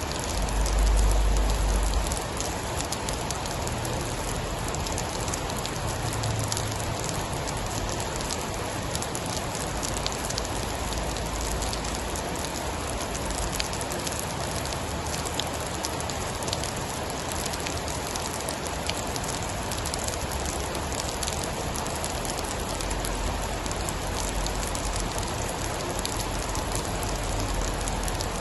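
Steady heavy rain on a surface: an even hiss with scattered fine drop ticks. A low rumble swells briefly near the start and again near the end.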